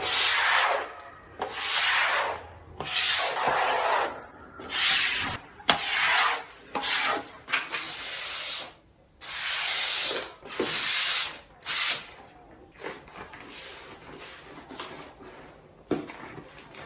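Surface being scrubbed by hand during cleaning: about a dozen separate rubbing strokes, each under a second long, then fainter rubbing from about twelve seconds in.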